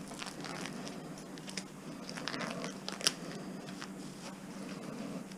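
Faint crackling and clicking of aluminum-armoured BX cable being worked through a roller wire stripper, with one sharper click about three seconds in.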